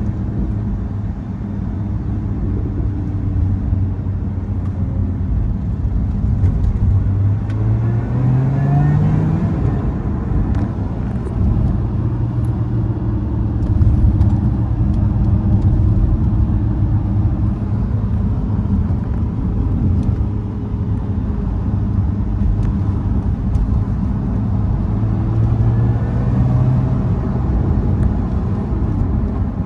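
Lotus Emira's supercharged V6 engine running steadily while the car drives. Its pitch rises as it accelerates about eight seconds in and again near the end.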